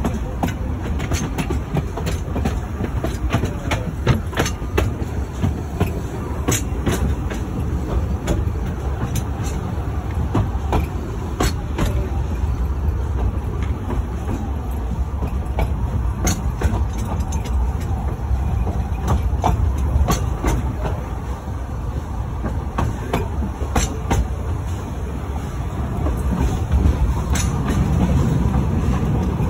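Narrow-gauge steam-hauled passenger train running along the line: a steady low rumble with irregular clicks and clatter from the wheels on the track.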